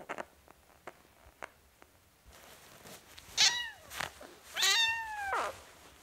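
A kitten meowing twice: a short meow about three seconds in and a longer one a second later, both falling in pitch. A few faint clicks come before them.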